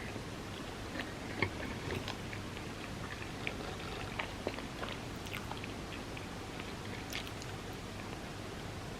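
A person chewing soft, creamy crepe cake, with irregular small wet mouth clicks over a steady faint hiss.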